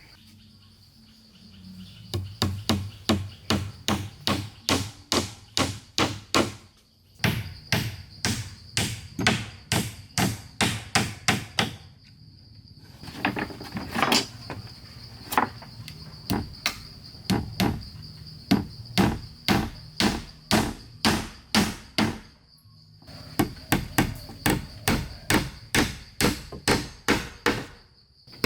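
A hammer striking wood in quick, even runs of about three blows a second, with short pauses between the runs. A steady high chirring of crickets runs underneath.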